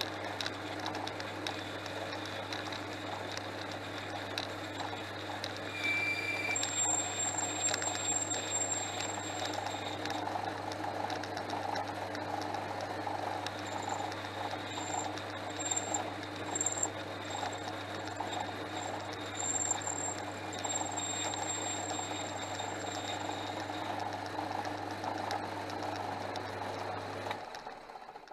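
Portass Model S lathe running, with a steady motor hum, while its cutting tool turns down a round bar; a thin high whine comes and goes through the middle. The sound stops abruptly near the end.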